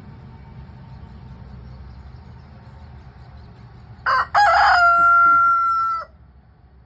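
Rooster crowing once, about four seconds in: a short opening note, then a long held note of nearly two seconds that cuts off sharply.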